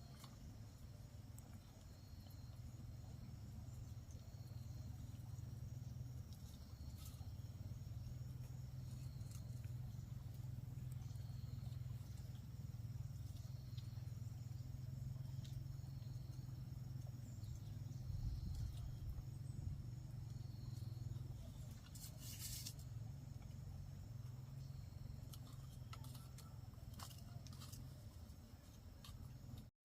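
Insects chirping steadily in thin, high-pitched tones over a continuous low rumble, with a brief rustling burst about two-thirds of the way through.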